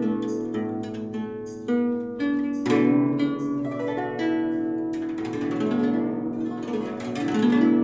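Chinese zither music: plucked notes ringing over deep bass notes, growing denser about five seconds in.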